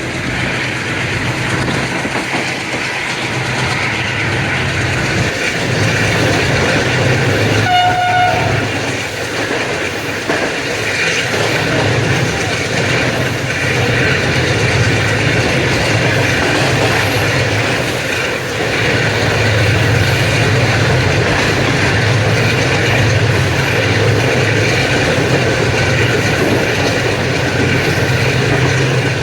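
Blue Tiger (AGE30) diesel-electric locomotive hauling a passenger train at speed: a steady low engine chugging under continuous wheel and rail clatter. A short horn blast sounds about eight seconds in.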